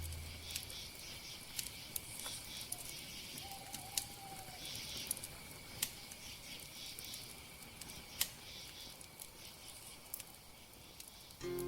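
Faint campfire crackling, with sparse sharp pops and a light hiss. The boom of a shaman's frame drum dies away at the start.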